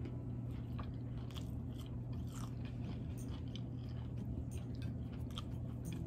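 A person chewing and biting crisp homemade battered fried onion rings, with many short, irregular crunches, over a steady low hum.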